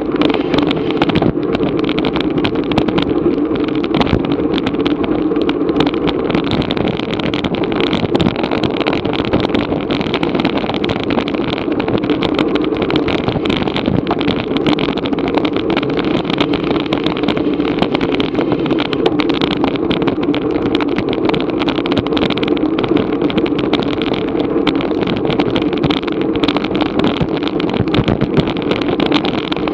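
Steady rush of wind and road noise on a bike-mounted action camera moving at race speed, with no breaks or changes.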